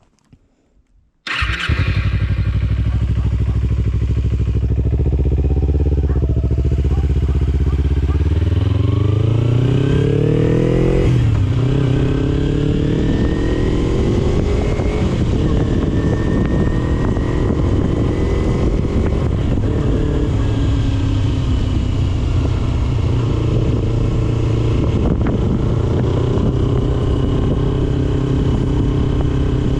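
2009 Kawasaki Ninja 250R's parallel-twin engine through an HMF slip-on exhaust. It comes in abruptly about a second in and runs steadily at a low pitch. From about eight seconds in it revs up as the bike pulls away, drops sharply at the upshift near eleven seconds, and then climbs and falls again through further gear changes.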